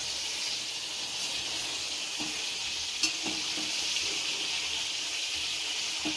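Marinated chicken pieces sizzling steadily in hot mustard oil in a metal kadai over a high gas flame, stirred with a spatula that scrapes the pan, with one sharp tap of it about three seconds in.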